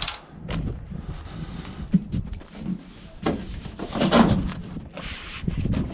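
Irregular knocks and clattering from scrap appliances being handled and moved, with the loudest knocks a little past the middle.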